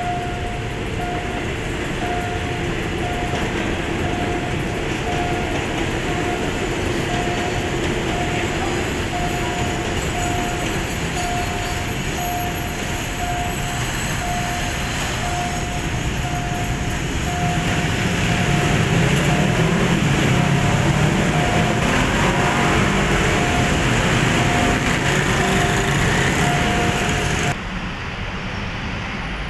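Diesel railcar passing over a level crossing, its engine and wheels running louder from about two-thirds of the way through. Under it, a level-crossing warning signal beeps in a steady repeating pattern over city traffic noise. The sound cuts off abruptly near the end.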